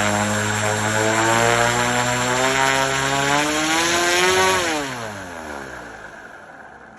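Radio-controlled Cessna 182 Skylane model airplane's motor and propeller, a steady buzzing tone that creeps slightly higher, then about four and a half seconds in drops sharply in pitch and fades away.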